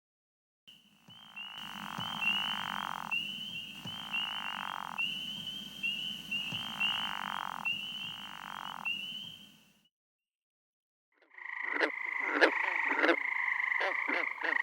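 Recorded frog calls, two different species in turn. First a chorus of high, rapidly repeated peeps with four roughly one-second trills lower in pitch. After a brief silence comes a different frog call of rapid clicking notes.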